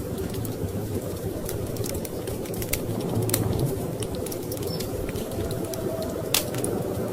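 Wood fire crackling with irregular pops, one louder pop about six seconds in, over a steady low rush of storm wind.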